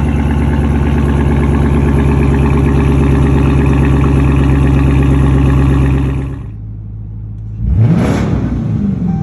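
Straight-piped 2015 Dodge Charger R/T 5.7-litre HEMI V8 exhaust, catalytic converters kept, running loud and steady. About six seconds in it drops off, then the engine is blipped once: a quick rev that rises and falls back.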